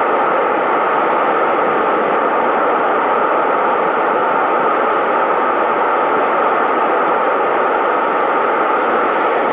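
Metal-melting furnace burner firing, a loud steady rushing noise that does not change.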